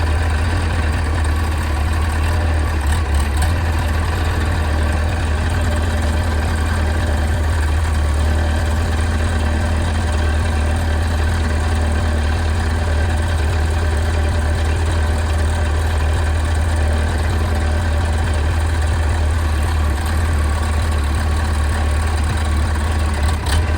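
Mini backhoe loader's engine running steadily, a constant low drone with no change in speed.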